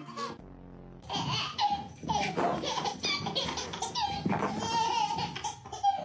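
Hearty human laughter that bursts out about a second in and goes on in loud peals.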